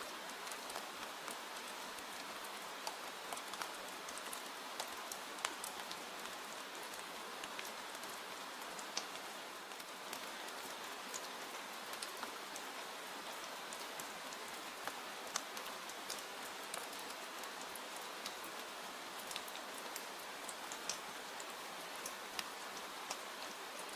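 Steady rain falling: an even hiss dotted with scattered sharp ticks.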